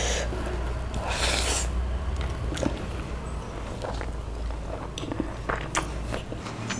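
Close-miked chewing of a big mouthful of chicken biryani, with scattered wet mouth clicks, over a steady low hum that fades shortly before the end.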